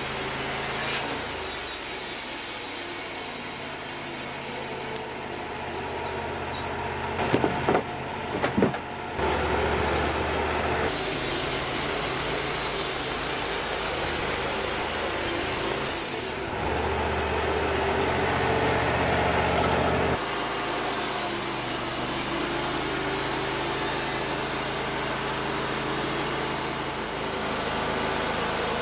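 Bandsaw sawmill's engine running steadily, with a few sharp knocks of wood being handled about seven to nine seconds in. The sound shifts abruptly several times.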